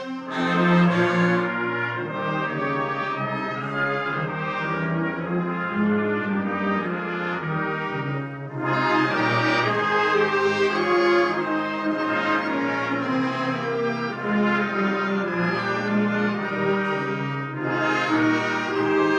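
Concert wind band playing, with the brass to the fore over a sustained low line. The full band swells in about half a second in, again about halfway through, and once more near the end.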